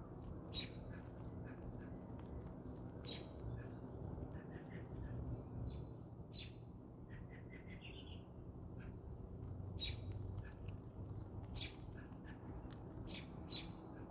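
Outdoor ambience: a steady low rumble with scattered short, sharp high chirps from birds, about seven of them, irregularly spaced.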